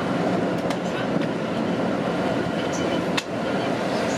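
Keihan electric commuter train running, heard from inside the front car: a steady rumble of wheels on rail, with a few sharp clicks, the loudest a little after three seconds in.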